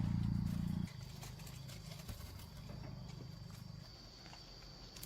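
Digging and pulling at soil and roots for tubers: scattered small knocks and scrapes. A steady low hum is loudest at the start and cuts off about a second in, and a faint steady high insect-like tone runs underneath.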